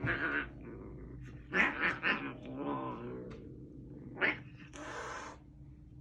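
Cats in a territorial fight, giving several short, loud cries, with a longer one near the end.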